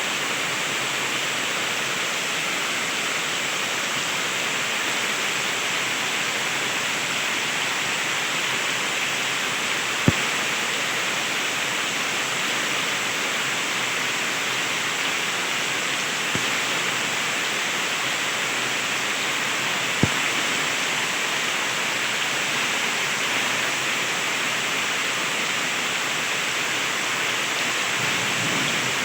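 Heavy rain pouring steadily, with a few sharp taps of drops striking something hard. A low thunder rumble starts building near the end.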